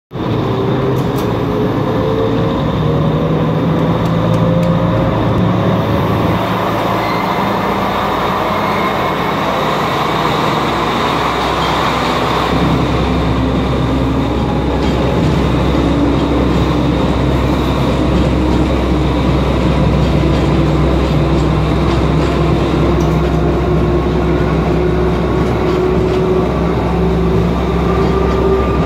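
Sri Lankan diesel passenger train running along the line, heard from on board: a steady rumble and rattle of the carriage on the track, with a faint whine that slowly climbs in pitch.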